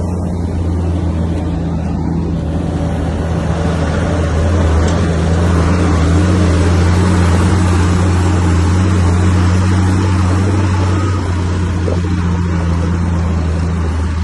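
Bulldozer's diesel engine running steadily under load, with a deep even drone and a rougher noise on top that swells a little in the middle and then eases.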